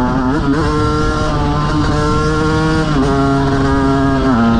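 KTM 125 motorcycle engine running at steady revs. Its pitch jumps up about half a second in, steps down around three seconds in and steps down again near the end.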